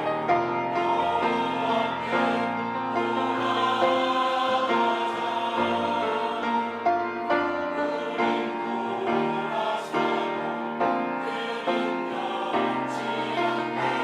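Church choir singing a sacred anthem in parts over a sustained low accompaniment.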